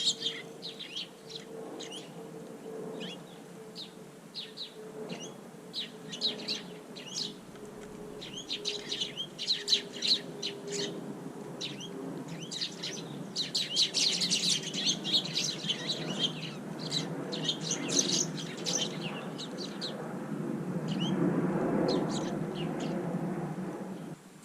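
Wild garden birds chirping, many short high calls in quick succession, busiest in the middle. In the last few seconds a louder low rustling noise rises under the calls, then everything cuts off at once.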